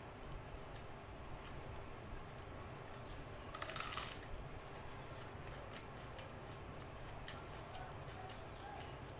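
Close-up eating sounds of rice and curry eaten by hand: scattered small wet mouth clicks of chewing, with one louder, short smacking burst about three and a half seconds in as a handful of rice goes into the mouth.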